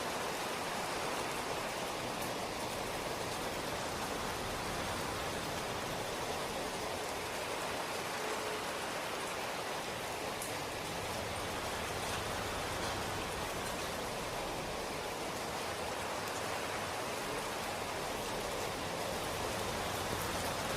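Steady rainfall, an even hiss of rain with no drops or changes standing out.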